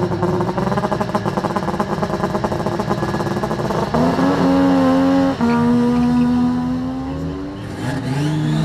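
Rally car engine held at high revs on the start line, then launching about four seconds in and accelerating hard, with an upshift just past five seconds and a second gear pull that fades as the car drives away. Near the end another engine note rises and falls.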